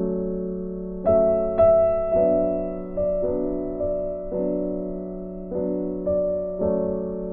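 Slow, soft background piano music: chords struck about once a second, each left to ring and fade.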